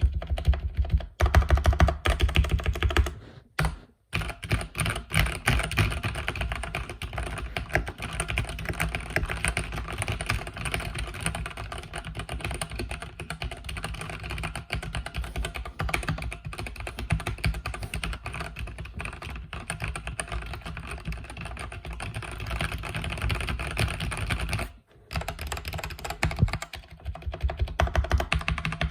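Mechanical keyboard with red (linear) switches being typed on quickly and continuously, a dense run of keystroke clacks with short pauses about four seconds in and near the end.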